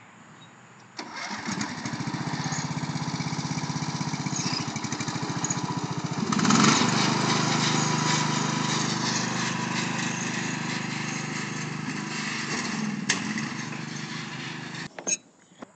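Small single-cylinder engine of a riding lawn tractor running at speed with a fast, even chug. It comes in suddenly about a second in, is loudest for a moment around six seconds in, and cuts off suddenly near the end.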